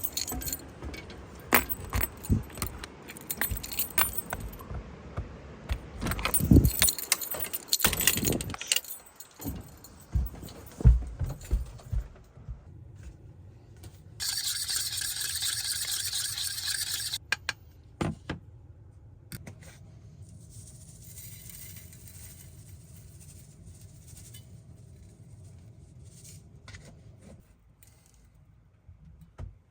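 Cookware and utensils being handled for cooking: rapid metallic clinks, jingles and knocks of pots, pans and cutlery being picked up and set down. About halfway through, a steady hiss lasts some three seconds, followed by a quieter low steady hum.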